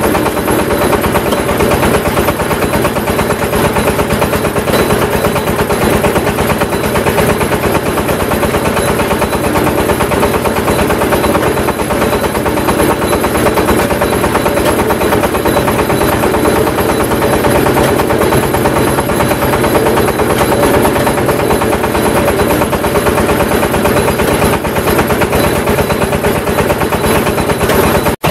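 Clay brick press machine running steadily, its mechanism making a rapid, even knocking rhythm.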